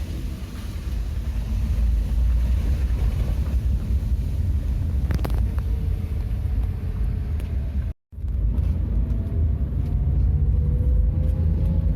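Truck engine running with a steady low rumble. The sound drops out for a moment about eight seconds in. After that a faint rising whine comes in as the engine gathers revs.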